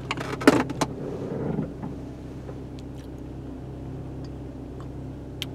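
Car engine idling steadily, heard from inside the cabin, with a few sharp clicks and knocks in the first second or so.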